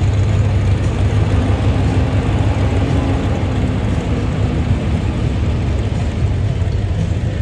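V8 engine of a classic Ford Mustang Mach 1 fastback running as it drives slowly past at parade pace: a steady, loud low rumble.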